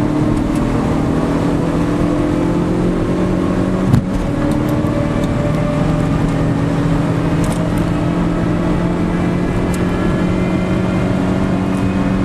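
Rally car engine heard from inside the cabin, pulling hard on a stage with its note slowly climbing. There is a short sharp knock about four seconds in.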